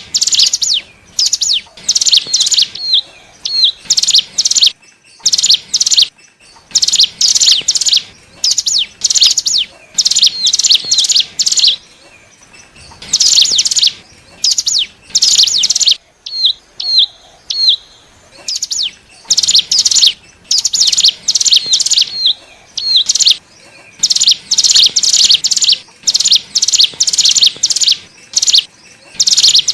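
Ciblek gunung (cigun), a prinia, calling in rapid, dry, chattering bursts, each group of notes a second or so long with short gaps between. Small clipped, hooked notes come in between the bursts. This is a lure call used to draw in wild cigun.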